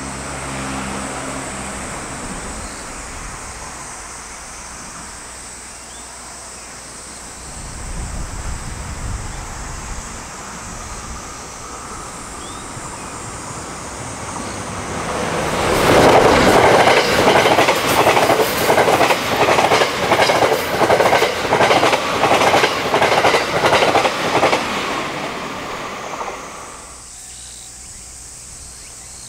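JR West Thunderbird limited express electric train passing at high speed. It builds up over a couple of seconds, then its wheels beat a steady clickety-clack over the rail joints, about one and a half beats a second, for about ten seconds before dying away.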